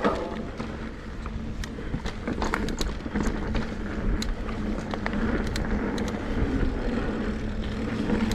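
Mountain bike being ridden along a dirt trail: a steady rumble of tyres and wind on the microphone, with frequent sharp clicks and rattles from the bike over rough ground.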